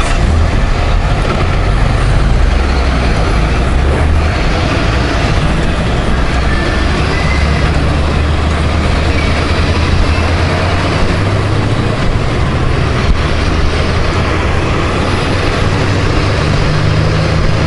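Motorcycle riding noise from a 2018 Honda Gold Wing: the flat-six engine with road and wind rumble, mixed with surrounding traffic including trucks. It is a loud, steady low drone that shifts in pitch a few times.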